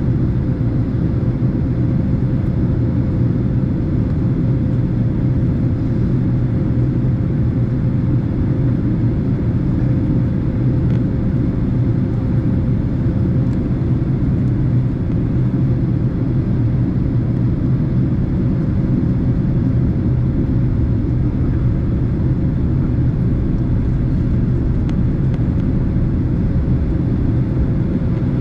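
Steady cabin noise of a Boeing 767 airliner in flight: an even, unchanging roar of engines and airflow, strongest in the low range, with a faint steady tone running through it.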